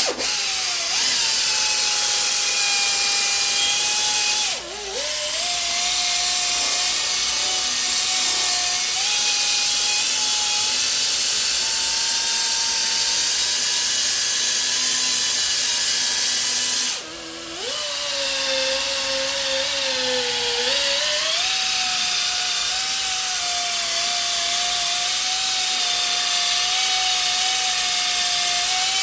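Electric car polisher running steadily on the paint at the gloss-polishing stage, with a high motor whine. Its pitch sags briefly about four and a half seconds in, then drops lower for a few seconds from about seventeen seconds before picking back up.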